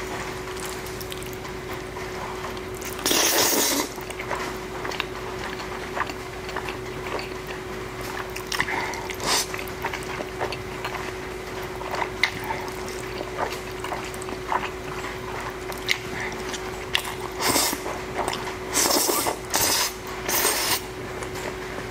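Close-miked eating: jjajangmyeon noodles being slurped and chewed, with small wet mouth clicks, and a few loud slurps, one about three seconds in and several near the end. Under it run a steady hiss of rain and a constant faint hum.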